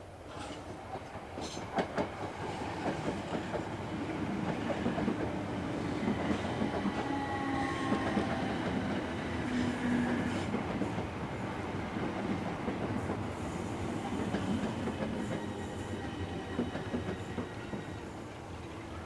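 A train running along the tracks, its wheels clattering over rail joints. It grows louder to a peak about eight to ten seconds in, then slowly fades, with a few brief, thin wheel squeals near the peak.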